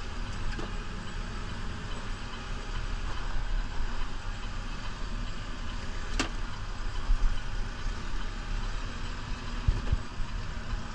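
New Holland Powerstar 75 tractor's diesel engine running steadily while plowing snow, with a single sharp knock about six seconds in.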